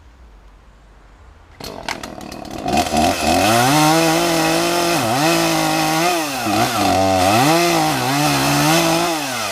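Gasoline chainsaw throttling up about a second and a half in and running at high revs, its pitch dipping again and again under load as the chain cuts into the wood of a tree trunk, making the felling notch. It drops back off the throttle near the end.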